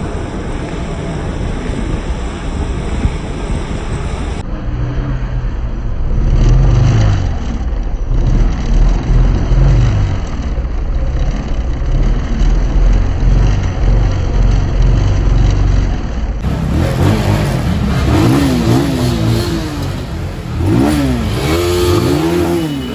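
Motorcycle engine revving up and down while riding, under heavy wind rumble on a helmet-mounted phone's microphone. In the last few seconds the revs climb higher and swing up and down repeatedly.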